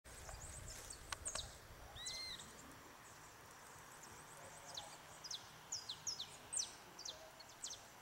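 Wild birds calling, faint: many short, high chirps that drop sharply in pitch, in quick runs, with one arched whistled note about two seconds in. A faint low rumble at the start.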